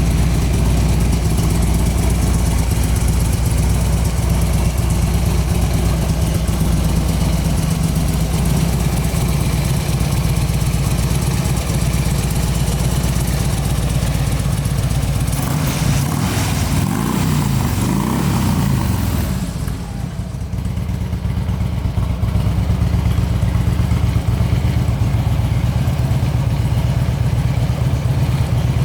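Harley-Davidson Road King Custom's air-cooled V-twin idling steadily. It is revved up and down briefly a little past the middle, then settles back to idle.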